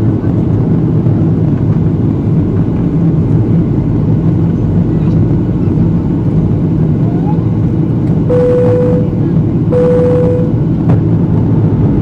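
Cabin noise of a Boeing 737-800 descending to land: a loud, steady drone of the engines and airflow with a low hum. Two short, steady tones sound about eight and ten seconds in.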